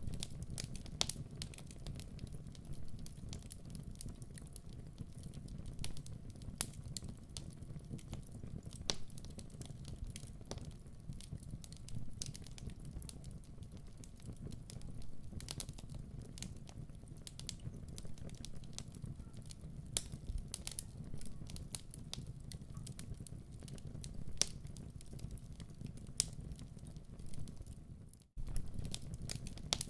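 Wood fire crackling in a fireplace: irregular sharp pops and snaps over a steady low rumble of flames. The sound briefly drops out near the end, then resumes.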